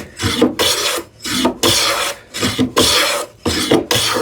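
Wooden hand plane taking shavings off a wooden drawer front, about six steady rasping strokes in a row.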